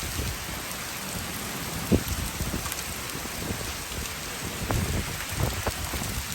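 Rain and small hail falling on a roof: a steady patter with scattered sharp ticks of hailstones, one louder knock about two seconds in.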